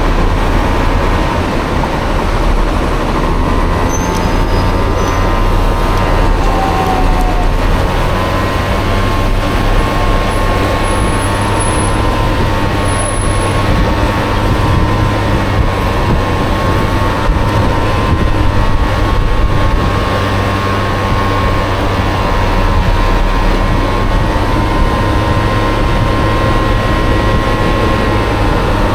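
Honda Dio two-stroke scooter engine running steadily under way, with a whine that rises and falls a little with speed, over heavy wind and road rumble.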